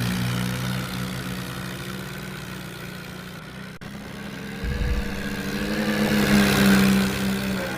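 Mahindra 575 tractor's diesel engine running steadily, swelling louder with a slight rise in pitch about five to seven seconds in, then easing off.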